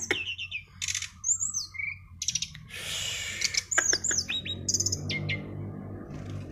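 Songbird singing a varied masteran-style song: rapid high chirps, harsh rasping notes and whistled downward glides. Background music fades in under it from about halfway, and the bird stops shortly before the end.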